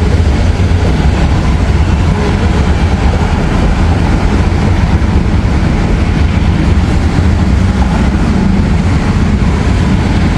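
A moving vehicle's loud, steady low rumble.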